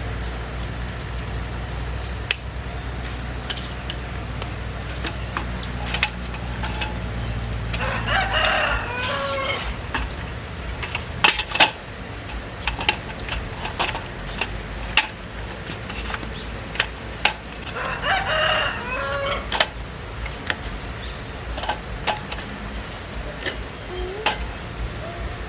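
A rooster crowing twice, each crow about two seconds long, over scattered sharp taps of raindrops. A low steady hum stops about nine seconds in.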